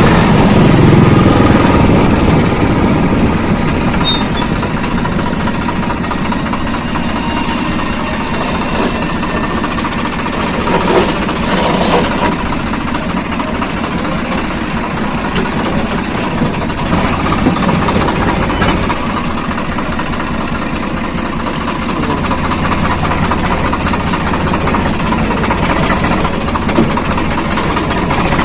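Swaraj 855 FE tractor's three-cylinder diesel engine running steadily, a little louder for the first couple of seconds, with a few short knocks about eleven and twelve seconds in.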